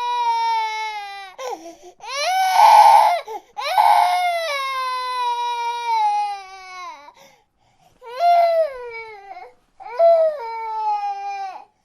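Baby crying in long wailing cries, each held a second or more and falling in pitch, about five in a row with short catches of breath between.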